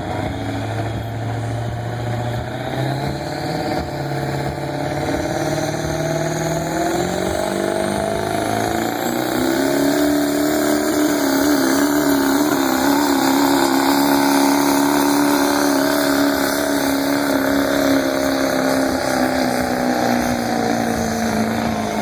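A pickup pull truck's 6.0 engine running hard under load while pulling the sled. The revs climb over the first ten seconds or so, then hold high and steady, easing off slightly near the end.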